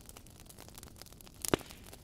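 Wood fire burning in a fireplace: soft hiss with small scattered crackles and one loud pop from a burning log about one and a half seconds in.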